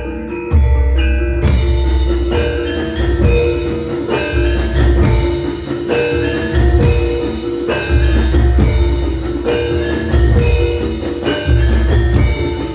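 Javanese gamelan ensemble playing a gending: bronze metallophones striking quick runs of notes over heavy bass booms from drums and gongs, with a brighter, fuller sound joining about a second and a half in.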